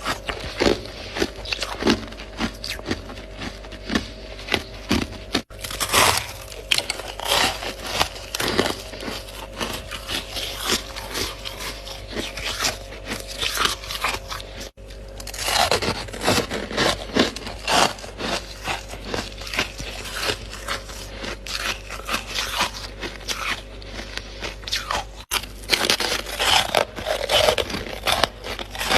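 Freezer frost being scraped and crunched: a dense run of irregular crackling scrapes and crunches. A faint steady hum sits under the first half.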